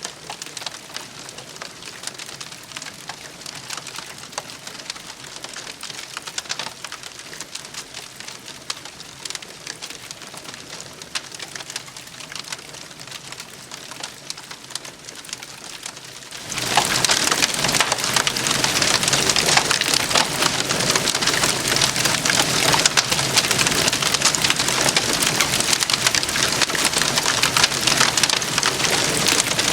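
Wood campfire crackling and popping in a steady stream of small snaps. About sixteen seconds in it suddenly becomes much louder and denser.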